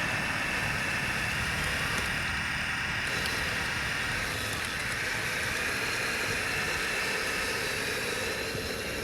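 Electric motors and gearboxes of remote-control model construction trucks running with a steady whine.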